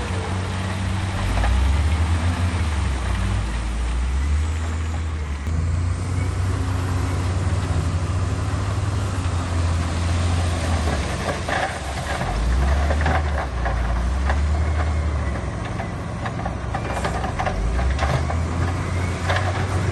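Heavy diesel earthmoving machinery running, its engine note rising and falling as the load changes. Scattered metallic clanks and rattles come in the second half.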